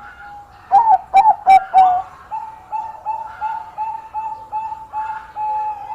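Zebra dove (perkutut bangkok) singing its full song: four loud, sharp opening notes, then a run of shorter coos about three a second, ending in a longer held note. Fainter coos from other doves sound in the background.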